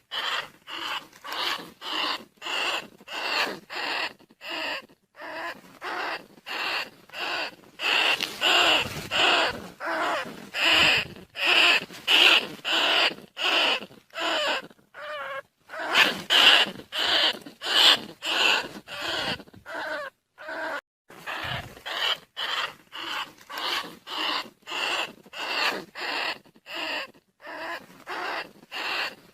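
Rat lure call: short squeaking calls of rice-field rats and bandicoot rats repeated about twice a second, played to draw the rats in.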